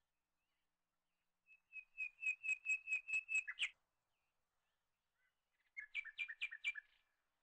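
A bird calling in two quick series of clear, high chirps, about four to five a second: a run of about eight, then a shorter run of about five near the end.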